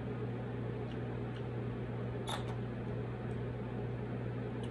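A person chewing a mouthful of chitterlings and rice, with small wet mouth clicks and one sharper click a little over two seconds in. A steady low hum runs underneath.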